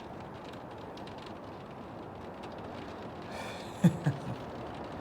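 Rain falling steadily in a thunderstorm, an even hiss. Two brief sharp loud sounds come a quarter second apart about four seconds in.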